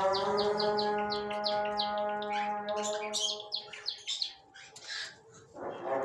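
Caged birds chirping in short, quick, falling notes, about three a second, over background music with long held notes. The music drops away for about two seconds near the end while the chirping goes on.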